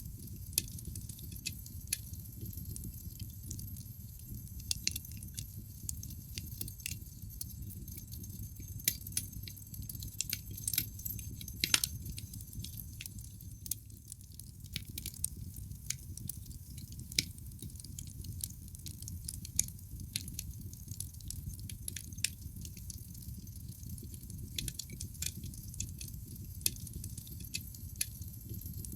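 Wood fire burning in a fireplace: frequent sharp, irregular crackles and pops over a low steady rumble of flame. A cluster of louder pops comes a little before the middle.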